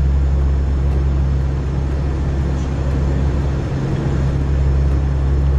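Aircraft engines droning steadily with a loud rush of wind and turbulence over a constant low hum, as heard flying through a storm. It starts and cuts off abruptly.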